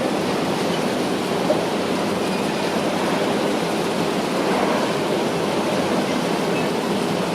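Steady mechanical noise of heavy construction machinery at work, an even rushing din with no distinct strokes or pitch.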